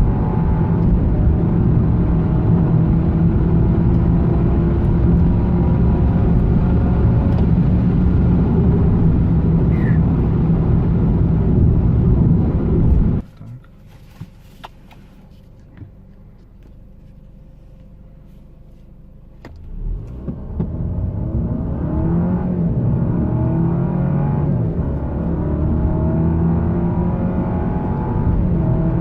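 Alfa Romeo Giulia 2.0T's turbocharged four-cylinder engine pulling hard under acceleration, its pitch climbing slowly. About 13 seconds in the sound drops abruptly to a quiet hum for around seven seconds, then the engine builds again, its pitch rising and falling back as the automatic gearbox shifts up.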